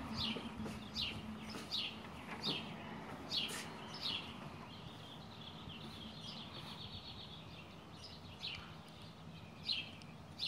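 A bird calling over and over with sharp, falling chirps a little more than once a second. The chirps give way to a short rapid trill in the middle, then resume.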